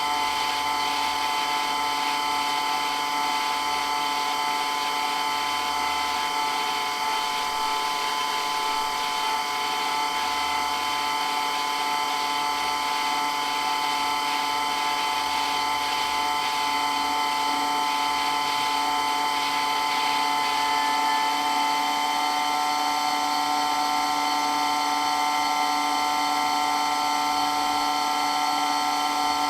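Water pump running continuously with a steady, loud mechanical whine made of several held tones.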